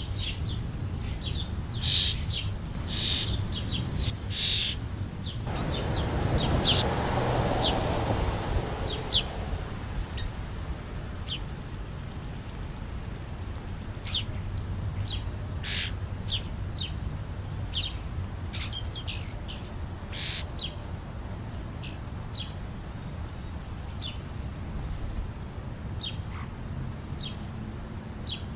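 Backyard birds chirping: many short, high calls scattered throughout. A rush of noise swells and fades about six to nine seconds in, over a steady low rumble.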